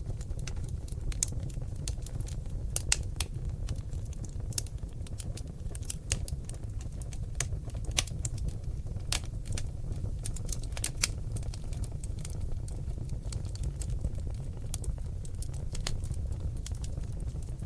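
Seasoned oak logs burning in a fireplace, crackling and popping in irregular sharp snaps over a steady low rumble of the fire.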